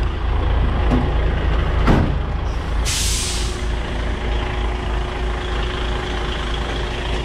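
Container truck's diesel engine running steadily, with a sharp knock about two seconds in and then a short hiss of air from the air brakes about three seconds in.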